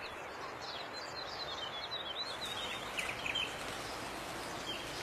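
Small birds chirping and twittering in quick, high notes over a steady hiss of outdoor background noise; the chirping thins out after about three seconds.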